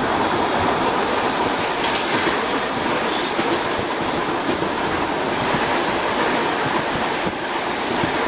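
Electric commuter train car, an ER2R, running at speed, heard from inside the car: a steady rumble and rush of wheels on rails.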